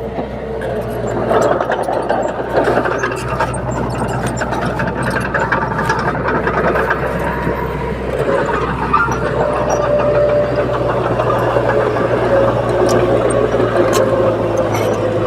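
Heavy diesel earthmoving machinery running steadily, with scattered sharp clicks and clanks, more of them in the first few seconds.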